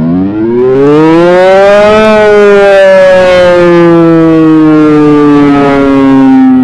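ACA Hurricane electromechanical civil-defense siren winding up: a loud wail that climbs in pitch for about two seconds, then slowly slides back down as it coasts.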